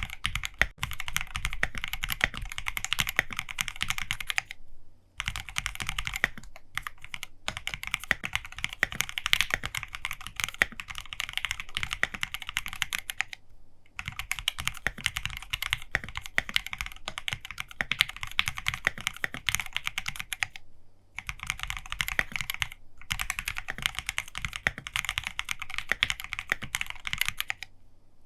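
Custom 65% mechanical keyboard (Monstargear Sangeo65) with lubed Everglide Aqua King linear switches and PBT OSA keycaps being typed on quickly. The keystrokes come in a dense stream, broken by a few brief pauses.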